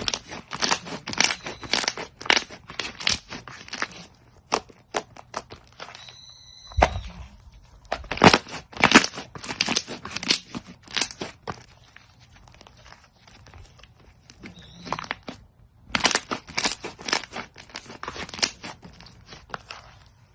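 Crunchy slime being squeezed and pressed by hand, giving repeated bursts of dense crackling and popping with short pauses between squeezes. A brief high squeak comes about six seconds in and another near fifteen seconds.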